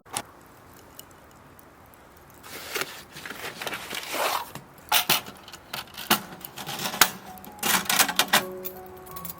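Rustling, scraping and sharp clinks of things being handled, several seconds of irregular bursts with a few loud clicks.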